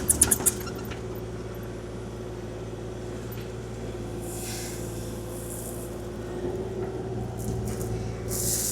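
Kubota KX040-4 excavator's diesel engine running steadily. A short rattle of gravel stops about half a second in, and two brief hisses come about four seconds in and near the end.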